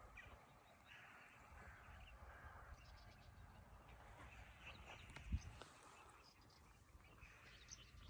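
Faint bird calls and chirps scattered over quiet open-air ambience, with one soft low thump about five seconds in.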